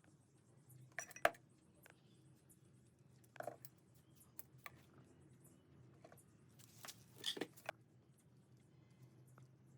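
Scattered light clicks and knocks, as of small hard objects being handled, over a faint steady hum; the sharpest comes about a second in, with a busier cluster around seven seconds.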